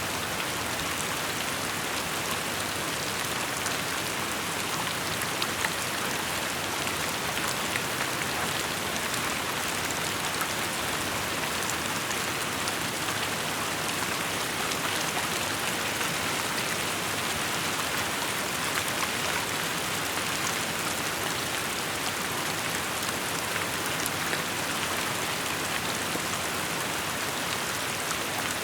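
Steady rain falling, an even hiss with many small drops pattering on surfaces.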